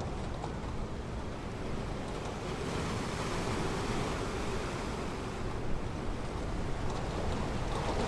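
Ocean surf washing onto a beach: a steady rushing of waves that swells for a couple of seconds about three seconds in.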